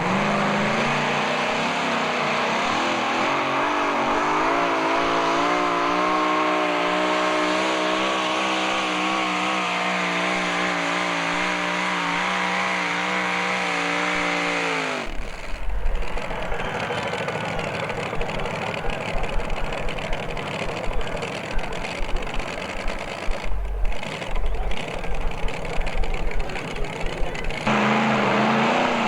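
Alcohol-burning pulling tractor engine running hard through a pull. Its pitch climbs over the first few seconds, holds with a wavering tone, then drops sharply about halfway through as the throttle is cut. A rougher stretch with low thumps and gusts follows, and near the end a steady engine sound suddenly returns.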